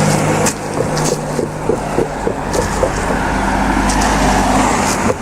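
Highway traffic passing: vehicle engine and tyre noise swelling to a peak about four seconds in, then easing off.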